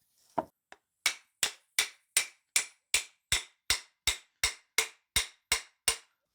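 A hammer striking repeatedly: one blow and a faint tick, then a steady run of about fourteen sharp blows, roughly three a second, each with a short ring.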